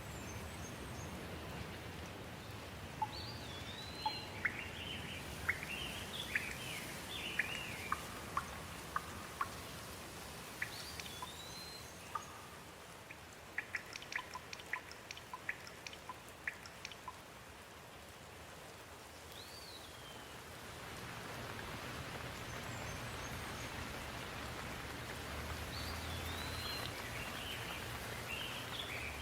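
Steady rain falling, with a bird calling in short whistled phrases several times through it and a run of sharp ticks about halfway. The rain grows louder in the last third.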